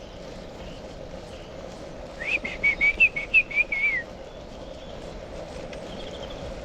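A songbird singing one short, rapid warbling phrase of wavering high notes about two seconds in, lasting just under two seconds, with a fainter chirp near the end, over a steady background hum.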